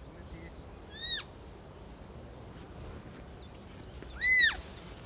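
Roe deer fawn giving two short, high squeaking calls that rise and fall in pitch, a faint one about a second in and a louder one near the end. Under them, insects chirp faintly in a steady pulse of about three a second.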